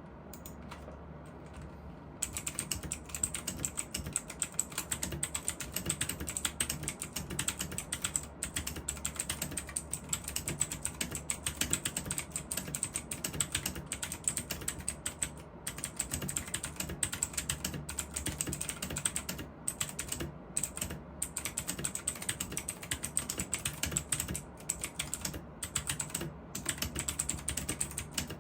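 Leaven K620 budget mechanical keyboard being typed on quickly: a dense run of clicking and clacking keystrokes that starts about two seconds in, broken by a few short pauses.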